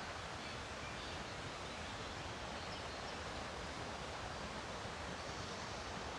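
Steady rushing of river rapids, an even wash of white noise, with a few faint, short bird chirps above it.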